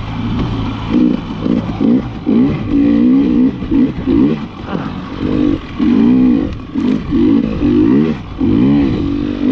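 KTM 300 XC-W TPI two-stroke dirt bike engine revving up and down as the throttle is opened and closed over and over, its pitch rising and falling about once or twice a second.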